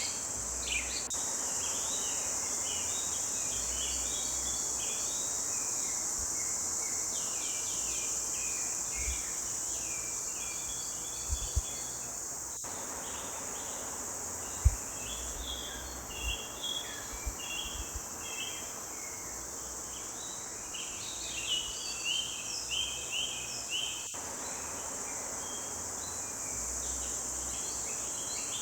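Forest birds singing, many short chirps and song phrases overlapping, over a steady high insect trilling like crickets. A few soft low thuds come in the middle, the sharpest about halfway through.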